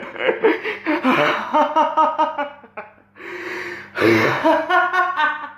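A person laughing and gasping in bursts, with breathy exhales, over a faint steady low hum.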